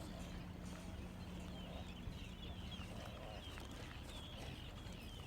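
Faint, repeated bird chirps over a low steady hum. A low drone in the hum stops about three seconds in.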